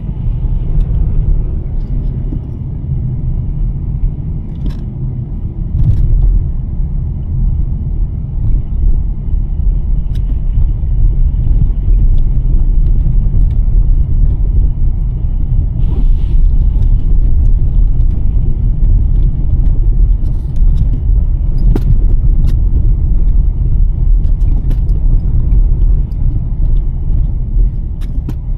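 2023 Nissan Sentra driving on a snowy road: a steady low rumble of tyres and road noise, getting louder about six seconds in, with occasional short clicks and knocks.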